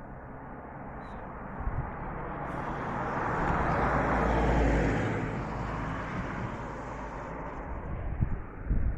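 A car or other road vehicle passing by: a steady rushing noise that swells, peaks midway and fades away, with a few short knocks near the end.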